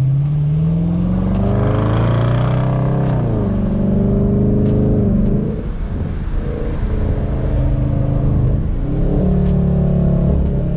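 Dodge Charger R/T's 5.7-litre HEMI V8 revving up under hard acceleration for about three seconds, then the throttle snaps shut. The exhaust runs rough and uneven on the overrun as the driver tries to make it pop, then settles into a steady cruise near the end.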